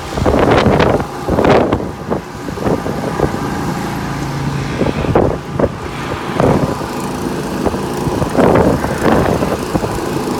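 An engine running steadily, with repeated surges of noise over it several times.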